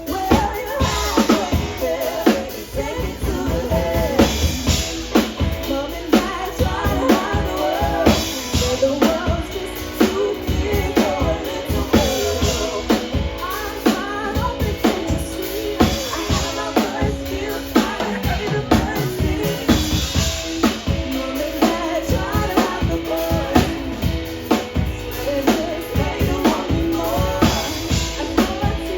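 A live band playing: a drum kit keeps a steady beat with kick drum, snare and rimshots under held chords and a wavering melody line.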